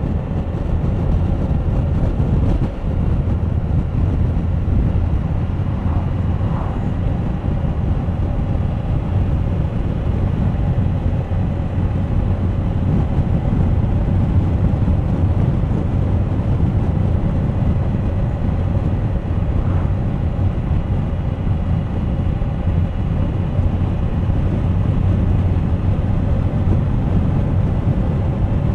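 Suzuki GSX1250FA motorcycle's inline-four engine running steadily at cruise, with wind and road noise over it.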